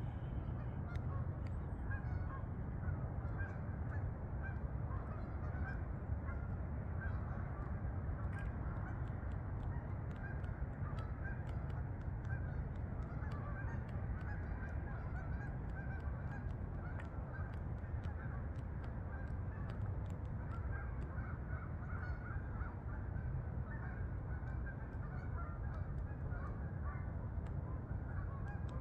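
A flock of geese honking continuously, many birds calling over one another, over a steady low rumble.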